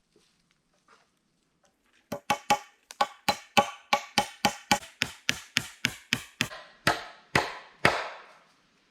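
A hand tool striking wood in a quick, even series of about twenty blows, roughly three a second, starting about two seconds in; the last few blows ring out longer.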